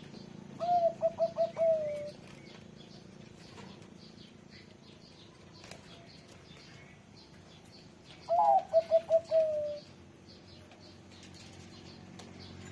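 Zebra dove singing its cooing song twice. Each phrase is a lead note, a quick run of about five short coos and a drawn-out falling final note. It is a middle-pitched voice of the kind graded in Thai dove-song contests.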